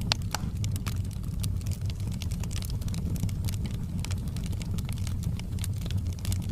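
Wood fire burning in a fireplace: many small, sharp crackles and pops over a steady low rush of the flames.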